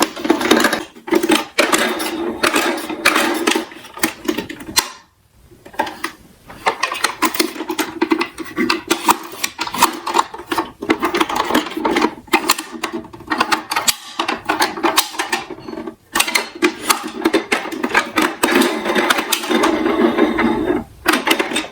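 Plastic toy garbage trucks rolling and clattering, a fast rattle of small clicks and knocks that pauses briefly twice.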